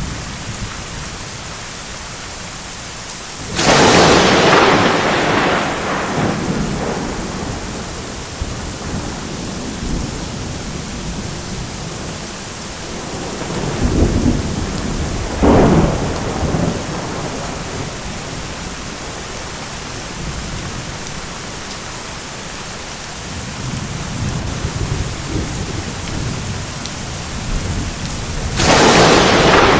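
Thunderstorm: steady rain, with a sharp thunderclap about four seconds in that rolls off over a few seconds, a rumble and a second crack around the middle, and another loud clap near the end.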